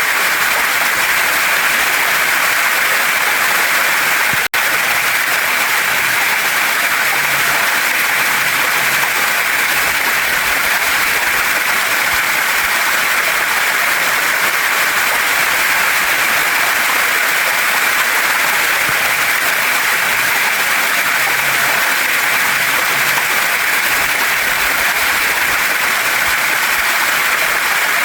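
Waterfall and mountain stream running: a steady, loud rush of water, broken once by a split-second dropout about four and a half seconds in.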